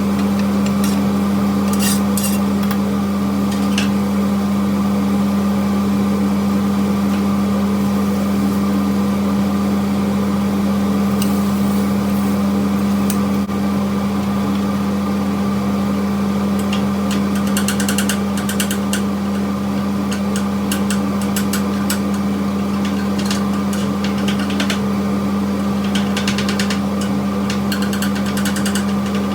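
Steady motor hum with a strong low tone, with scattered clicks and rustles, more of them in the second half.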